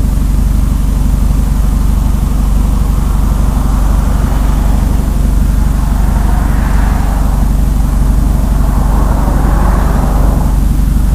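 2010 Acura TSX with Megan Racing aftermarket mufflers, its exhaust giving a steady low drone while driving on the street. Two swells of rushing noise rise and fall over it, one past the middle and one near the end.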